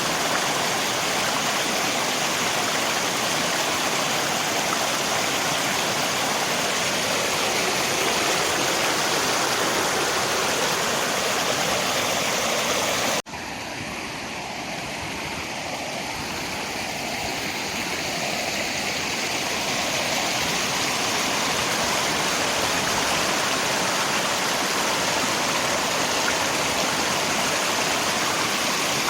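Rushing river water mixed with rain, a steady even wash of water noise. About halfway through it drops sharply in level, then slowly swells back up over several seconds.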